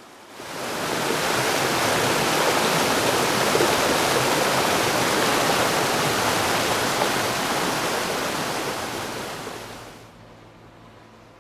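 Rushing water, a steady dense rush that fades in just after the start and fades out about ten seconds in.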